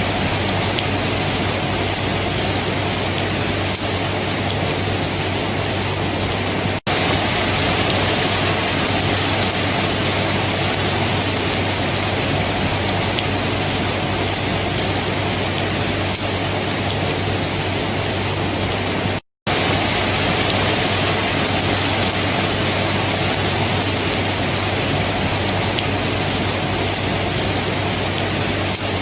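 Steady heavy rainfall, an even hiss of rain with no thunder heard. The sound drops out for an instant about seven seconds in, and again for a moment of silence about two-thirds of the way through.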